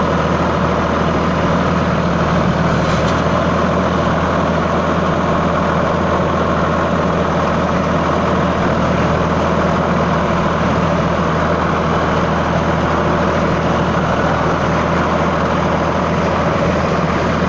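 Sonalika 745 DI tractor's diesel engine running steadily at a constant speed.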